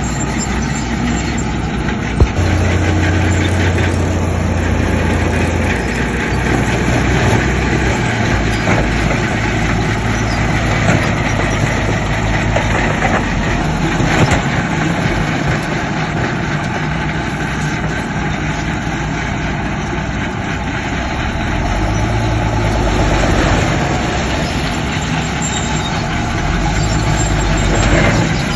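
Diesel engines of heavy construction machinery, a bulldozer and dump trucks, running steadily under work, with the engine note shifting every few seconds and a sharp click about two seconds in.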